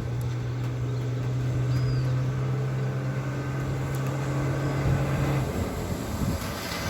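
A motor vehicle's engine humming steadily at a low pitch, which stops suddenly about five seconds in.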